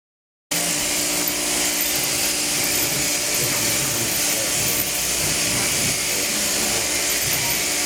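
A motor-driven machine running steadily with a loud, even whirring hiss and a steady hum, cutting in suddenly about half a second in.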